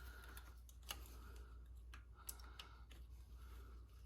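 A few faint, sparse metal clicks from the small pins and springs of a Spartan lunchbox locker being worked into place, over a low steady hum.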